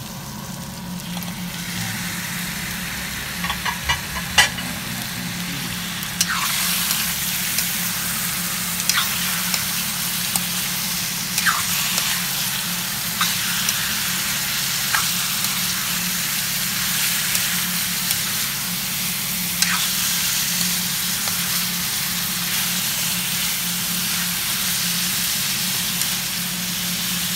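Cubed blue marlin, potatoes and onions sizzling in hot oil in a wok, with occasional taps and scrapes of a metal spatula and ladle against the pan. The sizzle grows louder about six seconds in and then holds steady.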